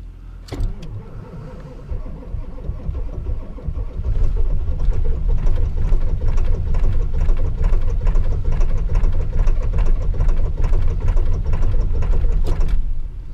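A Ford 7.3 Power Stroke V8 diesel being cranked by its starter in the cold on weakening batteries, turning over slowly. About four seconds in it gets much louder, with rough, uneven knocking as the cold engine nearly fires. It stops near the end without starting.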